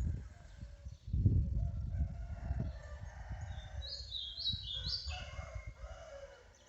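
A rooster crowing in one long call, with a small bird's high, stepped notes over it about four seconds in. A loud low rumble comes about a second in.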